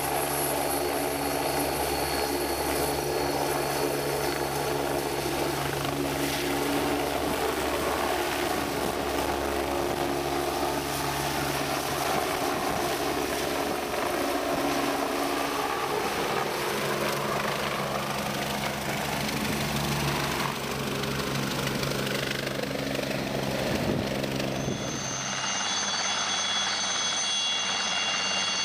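Helicopter turbine engine and rotor running steadily, with the pitch shifting slightly partway through. Near the end the sound cuts abruptly to a steadier helicopter sound with a high-pitched turbine whine.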